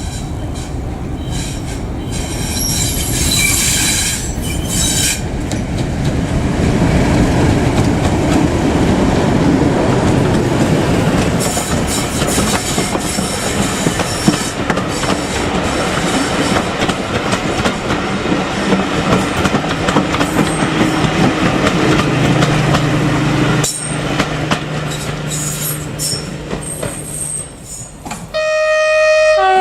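A train running past with heavy wheel and rail rumble and a squeal of wheels early on. Near the end a two-tone train horn sounds, high note then low.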